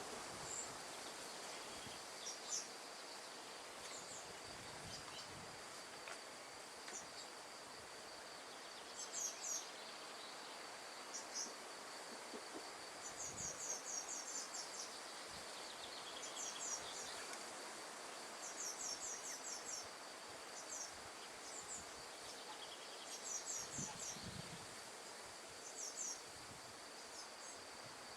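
Wind rustling through tree leaves as a soft, even hiss, under a steady high insect trill and short runs of high chirps that come every second or two.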